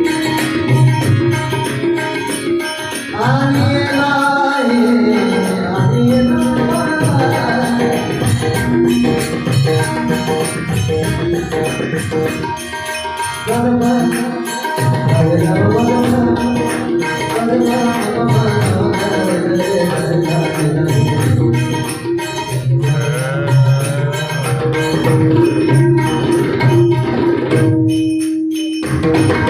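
Marathi devotional gaulan song: a male voice singing phrases over tabla-led percussion and sustained accompanying notes, with a brief break in the bass near the end.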